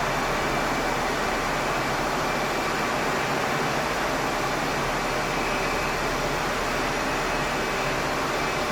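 Jet airliner engines running, heard as a steady rushing noise with a faint high whine.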